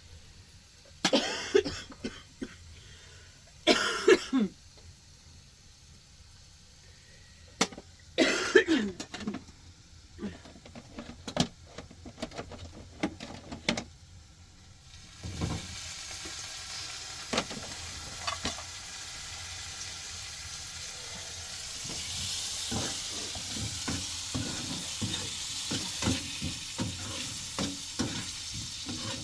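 A person coughs several times, then, from about halfway through, food starts sizzling in a hot pan with the clicks and scrapes of a utensil stirring it.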